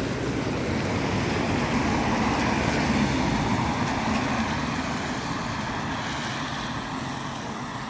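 Vehicle traffic on a wet road: tyres hissing through spray over engine noise, swelling to a peak a couple of seconds in and then slowly fading as it passes.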